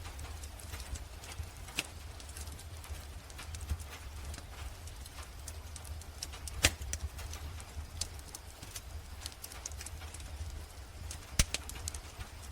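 Fireplace crackling: a steady scatter of small irregular snaps and ticks, with two louder pops, one about halfway through and one near the end, over a low steady rumble.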